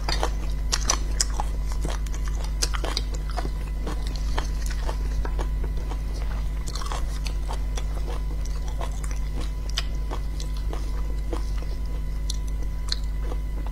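Close-miked eating sounds of soft braised beef bone marrow: wet chewing and many short sharp mouth clicks, along with a metal spoon scraping marrow out of the bone, over a steady low hum.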